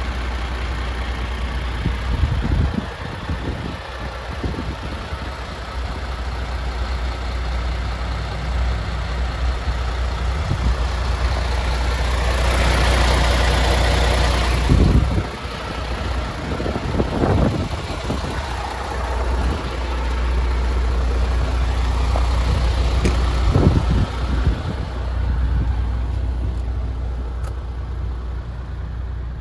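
MAN TGX 26.470 tractor unit's 12.4-litre straight-six diesel idling steadily, with a few thuds and a louder stretch of hiss about halfway through.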